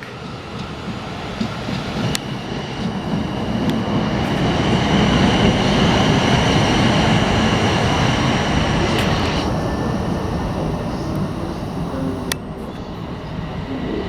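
South Western Railway Class 450 electric multiple unit pulling out of the station and running past. Its rumble builds to a peak about halfway through and then fades as it draws away, with a steady high whine in the middle and a few sharp clicks from the wheels.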